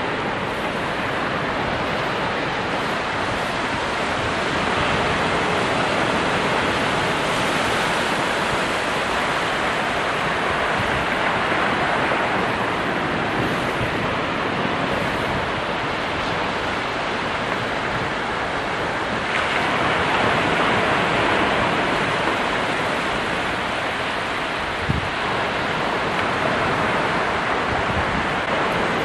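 Ocean surf: a continuous wash of breaking waves, swelling slightly louder now and then, with a brief sharp knock about twenty-five seconds in.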